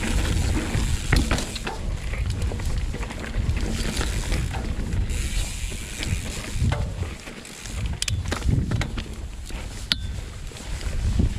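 Mountain bike descending a dirt trail: wind buffeting the rider's camera microphone with a steady rumble of tyres on the ground, and sharp clicks and rattles from the bike over bumps.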